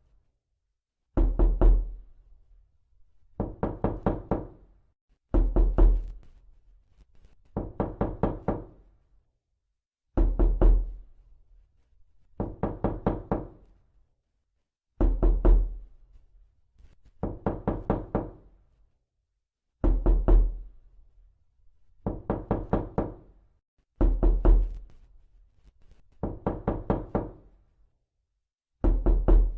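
Rapid knocking in bursts of several quick raps that fade, a burst about every two seconds, with every other burst starting deeper and heavier.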